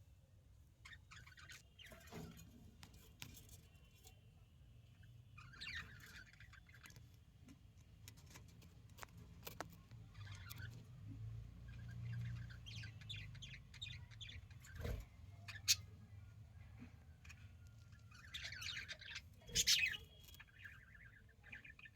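Pet budgerigars (budgies) chirping and chattering in short bursts, with scattered sharp clicks and knocks between them.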